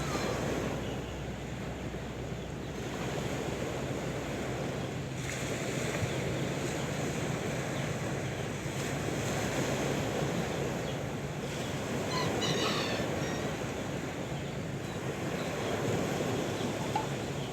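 Sea surf washing in, a steady rushing noise that gently swells and eases as the waves come and go.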